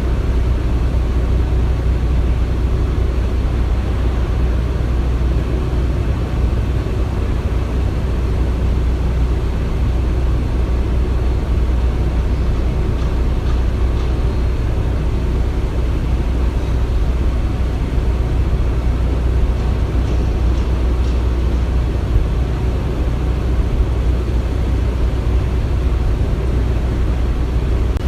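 Construction-site ambience: a steady, low rumble of heavy machinery running without a break, with a few faint clicks on top.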